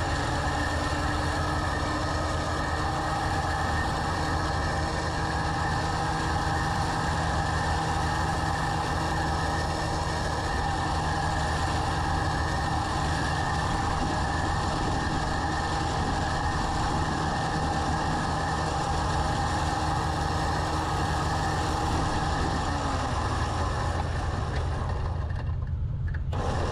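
Truck engine running steadily, with a steady hum of constant pitch over it.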